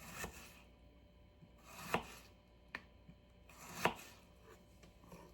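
Kitchen knife, freshly sharpened, slicing through an onion: three cuts about two seconds apart, each a short swish ending in a sharp knock as the blade meets the board.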